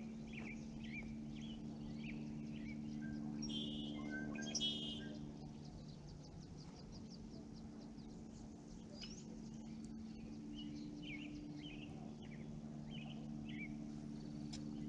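Small birds chirping and calling again and again, with a louder run of calls about four to five seconds in, over a steady low hum.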